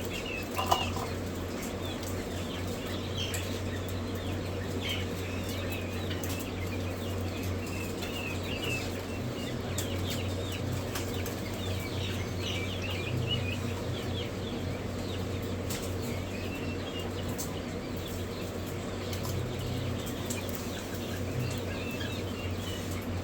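A brood of young quail and chicks chirping and peeping constantly, many short high calls overlapping, over a steady low mechanical hum. One sharp click a little under a second in.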